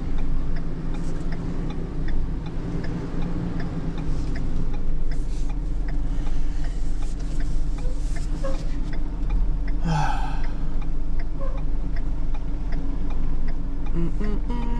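Truck engine running, heard from the cab, with the indicator flasher ticking steadily about one and a half times a second. A brief squeak about ten seconds in.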